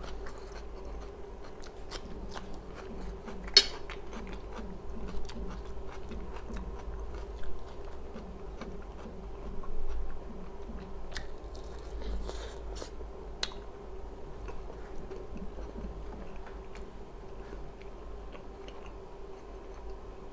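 A person chewing and biting food close to the microphone, in a steady rhythm, with a few sharp clicks, the loudest about three and a half seconds in.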